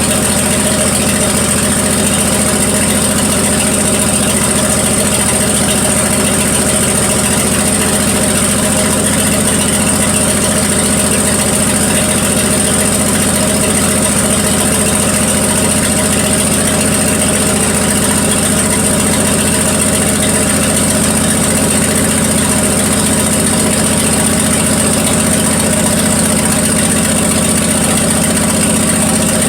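1974 Plymouth Duster's slant-six engine idling steadily as it warms up after a cold start, with a miss that the owner can hear but has not located.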